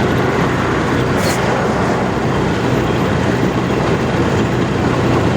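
Steady highway traffic noise: engines and tyres running on the road, with a steady low drone. There is a brief high-pitched chirp about a second in.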